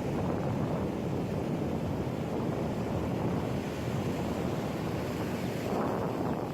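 Wind buffeting the microphone over the steady wash of ocean surf, with a louder surge of wash near the end.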